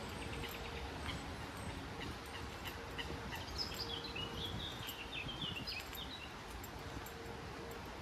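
A small songbird sings a quick twittering phrase of short high chirps in the middle, over steady outdoor background noise.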